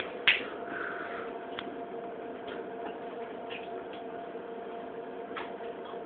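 A single sharp knock about a third of a second in, then a few faint clicks, over a steady low hum.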